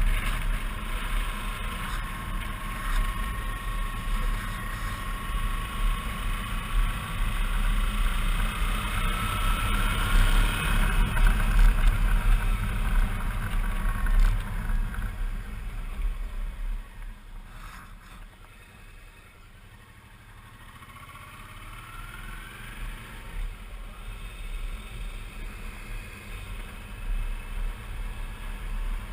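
Wind rush on the microphone over a Suzuki V-Strom 650's V-twin engine while riding, with a faint whine that rises in pitch as the bike speeds up. The noise drops for a few seconds past the middle, as if the bike slows, then builds again.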